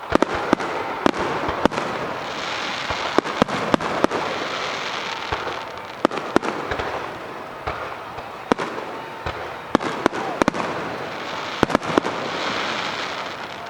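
Fireworks display: aerial shells bursting one after another, a dozen or more sharp bangs, some in quick pairs, over a continuous hiss that swells and fades.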